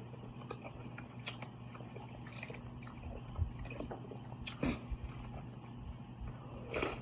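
Close-miked eating of a saucy seafood boil: wet chewing and biting with a few short, sharp crunches scattered through, over a low steady hum.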